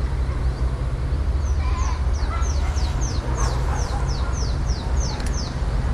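A bird calling a quick run of about a dozen short, high notes, each falling in pitch, about three a second, starting a second and a half in and stopping near the end. A steady low rumble lies underneath throughout.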